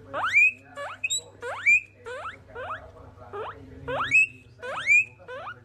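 Guinea pig wheeking: a rapid run of short rising whistle-squeals, two or three a second, with no pause.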